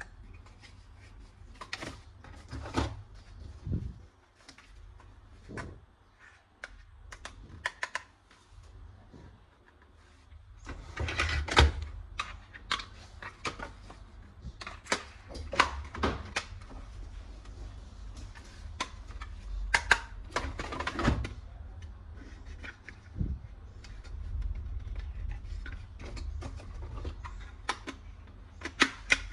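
Hard plastic toy parts being handled, with irregular clicks, knocks and rattles, busiest about a third of the way in and again about two thirds in.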